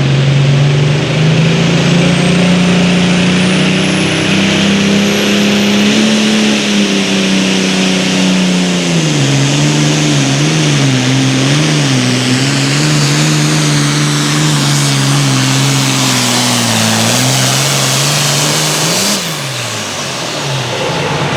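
Super Farm pulling tractor's turbocharged diesel engine at full throttle under load. Its pitch climbs over the first six seconds, then sags and wavers as the pull goes on, with a faint high whine rising in the first several seconds. About two seconds before the end the engine blips and drops back off the throttle.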